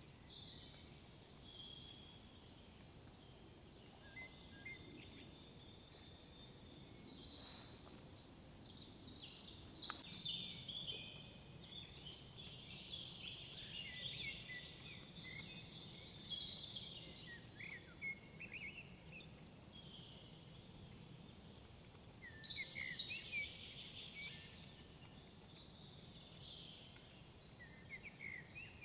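Several songbirds singing in woodland: overlapping chirps and short phrases, with a high, fast trill repeating every several seconds and busier bursts of song about a third of the way in and again near the end.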